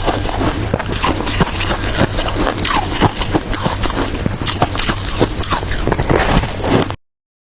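Crunchy shaved ice being bitten and chewed, a dense run of irregular cracks and crunches. It cuts off suddenly near the end.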